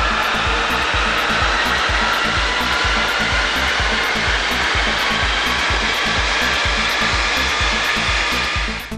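VW Golf 6 2.0 TDI common-rail diesel running hard on a chassis dynamometer during a power run: a loud, steady rush of engine, tyre and roller noise, its faint whine sinking slightly in pitch, that cuts off sharply near the end.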